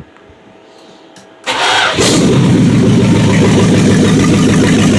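Freshly rebuilt 318 cubic-inch V8 of a 1976 Dodge Coronet cranking briefly about a second and a half in, then catching and running loud and steady. It is a cold start after priming the carburetor, with no exhaust pipes fitted, so it runs straight out of the open manifolds.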